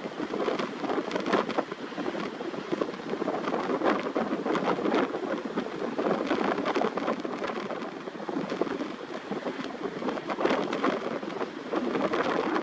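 Strong, gusty wind buffeting the microphone: a continuous rushing roar broken by uneven crackles and surges.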